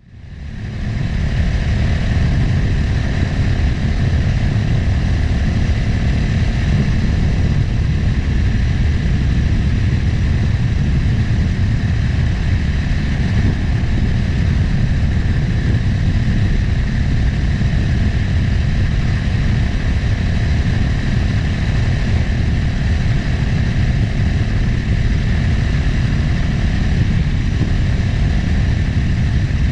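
Motorcycle engine running steadily on the move, with wind rushing over the microphone. It fades in over the first second.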